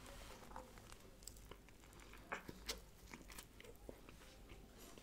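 Faint, close-up mouth sounds of a man biting and chewing a chicken kathi roll in a soft flatbread wrap: scattered small clicks and smacks, a couple of them louder about two and a half seconds in.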